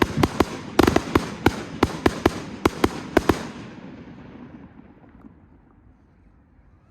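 Display fireworks going off in a rapid string of sharp bangs, several a second, for the first three seconds or so, then the echoing rumble fades away over the last few seconds.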